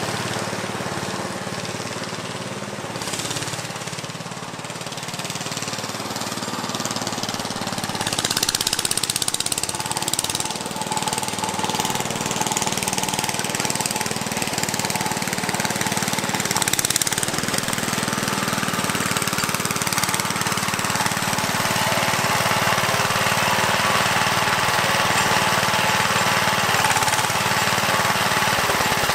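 Engine of a homemade 1940s garden tractor running as it is driven. Quieter at first as it drives off across the yard, louder as it comes back up close near the end.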